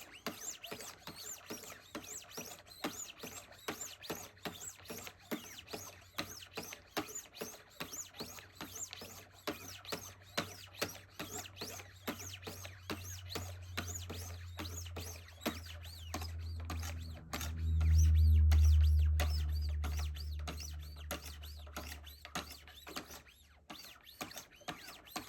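1600-grit ceramic stones of a Wicked Edge Go guided sharpener stroking along a knife's steel edge in a steady run of quick, regular scraping passes. A low drone swells up in the middle and fades again.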